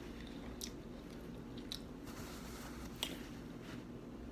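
A person chewing food close to the microphone, with three short sharp crunchy clicks of biting or chewing.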